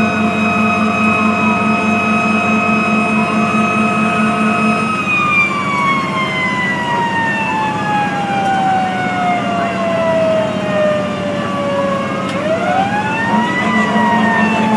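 Fire apparatus sirens: one holds a steady high pitch, then falls slowly in pitch for about seven seconds and rises again near the end, while another wails up and down every few seconds.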